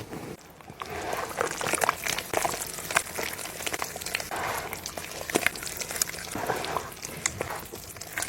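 Dry, dusty cement crumbling and dropping into water: a dense crackling fizz of many small crumbles and splashes that starts about a second in and keeps going.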